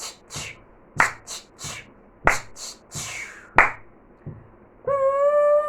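A person imitating a steam train: short, sharp, breathy 'chh' puffs in rough groups of three, then a long steady whistle-like 'toot' held on one pitch, starting near the end.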